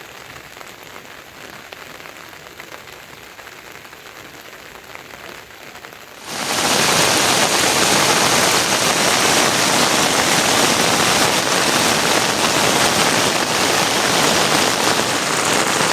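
Rain falling: light, with scattered separate drops at first, then about six seconds in it suddenly becomes much louder, a dense heavy downpour.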